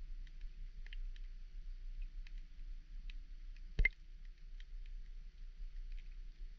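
Underwater ambience: a steady low rumble with scattered sharp clicks and ticks, a few each second, and one much louder click about four seconds in.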